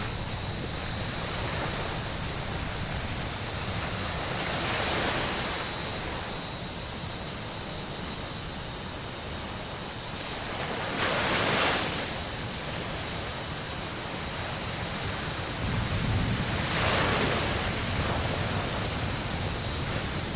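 Ocean waves breaking and washing up a beach: a steady surf hiss with three louder surges as waves come in. A low rumble comes in near the end.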